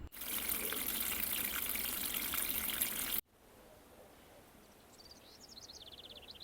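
Running water, a loud even splashing hiss, which cuts off abruptly about three seconds in. Then a quieter outdoor background in which a small bird sings a fast trill of high notes that falls slightly in pitch near the end.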